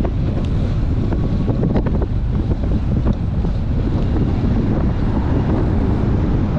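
Strong gusty wind buffeting a chest-mounted camera's microphone on a moving bicycle: a loud, steady low rumble.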